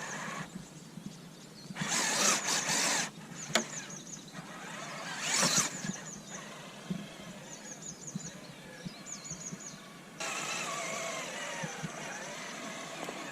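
Element Enduro Sendero SE RC crawler's electric motor and gear train running in short bursts, then steadily from about ten seconds in. Groups of short high chirps come in the pauses.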